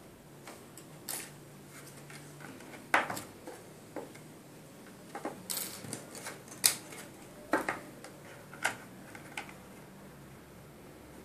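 Scattered sharp clicks and taps at irregular intervals, like small hard objects being handled, over a faint steady hum.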